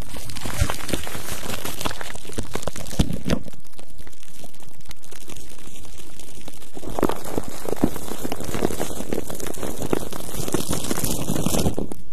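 Close-miked ASMR face-scrubbing: dense, scratchy crinkling and rustling of a scrub worked over the microphone, with many small clicks.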